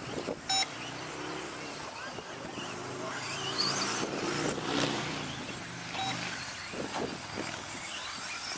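Radio-controlled 2WD stadium trucks racing, their motors whining up and down as they accelerate and brake, over a steady hiss of tyres and track noise. A short electronic beep sounds about half a second in.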